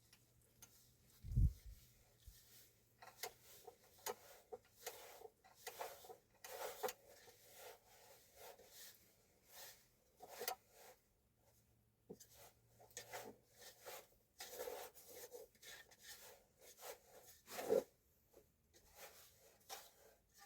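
Irregular rubbing and scraping handling sounds, with one low thump about a second and a half in.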